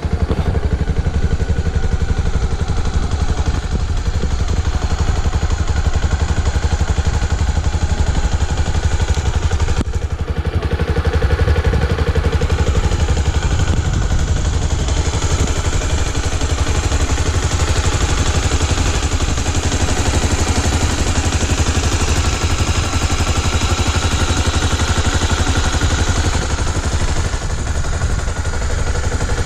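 Honda XR 250 Tornado's air-cooled single-cylinder engine running steadily, with a brief dip about ten seconds in.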